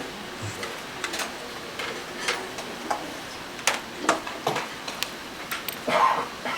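Irregular light clicks and taps of small watchmaking tools and parts on a workbench, with a louder scuffing clatter about six seconds in.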